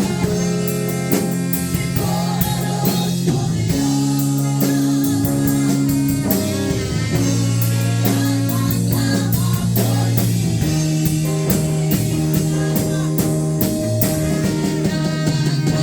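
Live worship band music: guitar and drum kit playing, with singing.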